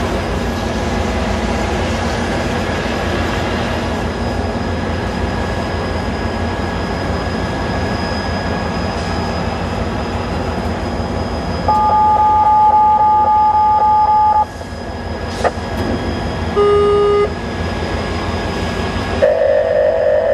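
Steady low rumble, over which a radio scanner sounds a two-tone touch-tone (DTMF) beep held for a couple of seconds about twelve seconds in, then a shorter beep and a pulsing tone near the end.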